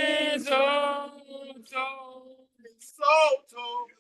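A woman singing a slow worship song, holding a long note at the start, then shorter sung phrases with brief breaks between them.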